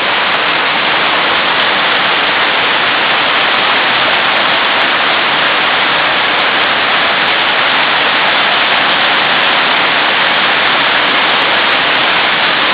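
Torrential rain pouring down in a steady, loud hiss.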